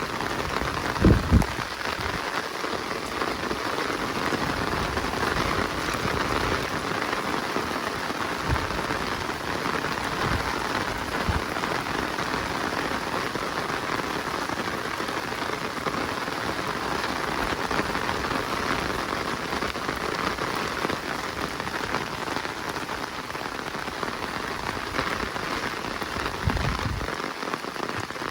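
Steady rain falling in a forest, an even hiss of drops. A few low thumps break through it, the loudest a pair about a second in.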